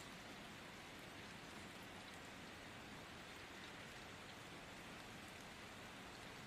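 Faint, steady rain: an even hiss with no gusts, single loud drops or thunder.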